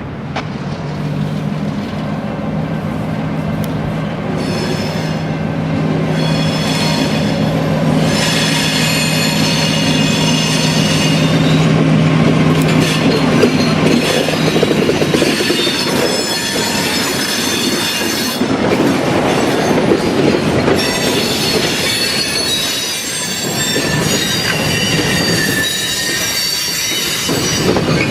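Wheels of a slow-moving Essex Terminal Railway freight train squealing on the rails, a cluster of high-pitched tones that come and go. The locomotive's diesel engine runs as a steady low drone through roughly the first half.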